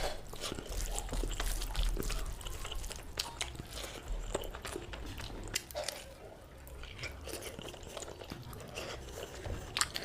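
A person chewing and smacking close to the microphone, eating oily mutton curry with rice, with many irregular wet mouth clicks and crunches.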